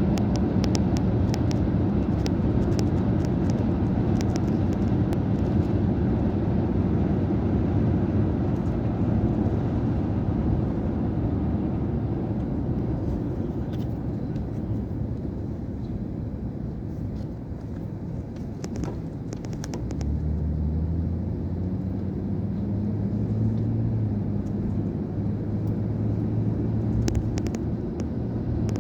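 Road vehicle's engine and road noise, heard while riding along. The engine note eases off, then picks up strongly again about twenty seconds in, as if accelerating.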